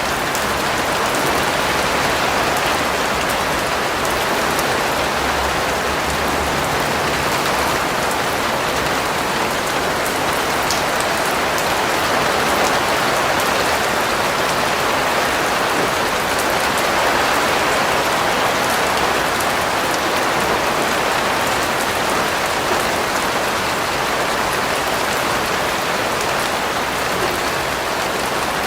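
Steady rain falling on a surface, a constant even hiss with scattered drop ticks.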